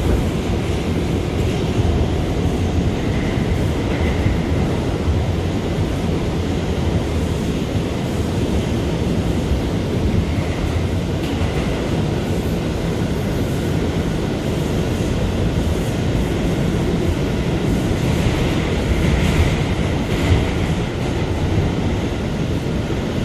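Inside an R179 subway car running at speed: a steady rumble of wheels on rail and running gear, with a faint high whine that comes and goes twice.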